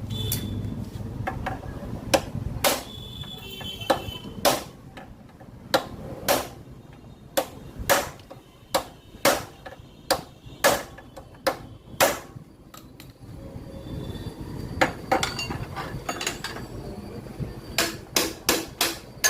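Hammer blows on the metal steering parts of a motorcycle being serviced: a series of sharp knocks, about two a second for several seconds, a pause, then a quick run of blows near the end.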